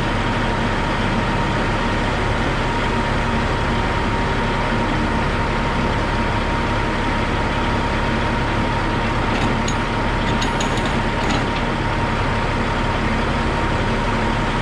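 Heavy diesel engine running steadily, with a few light clicks about ten seconds in.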